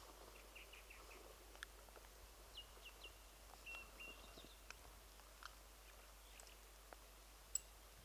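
Near silence on an open riverbank, with faint birdsong: a quick run of short chirps, then a few thin whistled notes. A single sharp click near the end.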